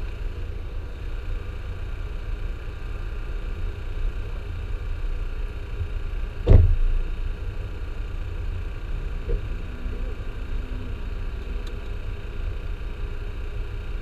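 Car engine idling, a steady low rumble, with one sharp knock about six and a half seconds in.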